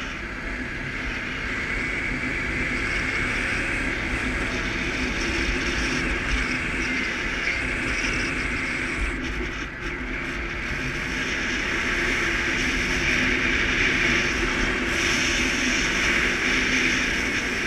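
Suzuki KingQuad ATV's single-cylinder engine running steadily under way, with road and wind noise, getting a little louder about two-thirds of the way through.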